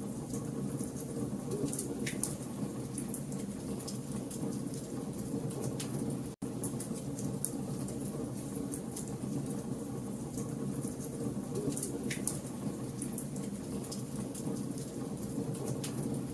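Wood fire burning with a steady low rush and frequent small crackles and pops from the logs, cutting out for an instant about six seconds in.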